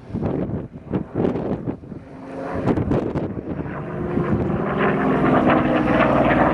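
Goodyear FG-1D Corsair's Pratt & Whitney R-2800 radial engine droning and growing steadily louder as the fighter comes around in its aerobatic display. Gusts buffet the microphone in the first two seconds.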